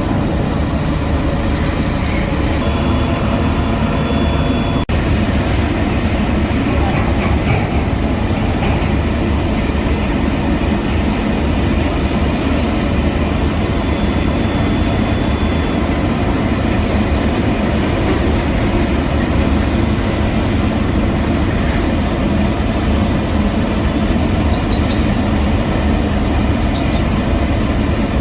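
Heavy road-construction machinery running: a loud, steady, low engine rumble, with a momentary drop about five seconds in.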